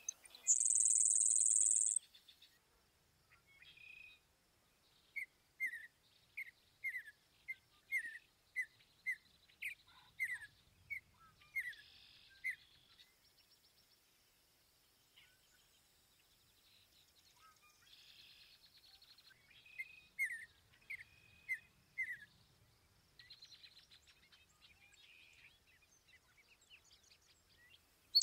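Bird calling: runs of short notes that fall in pitch, about two a second, in two bouts, after a brief high buzz near the start.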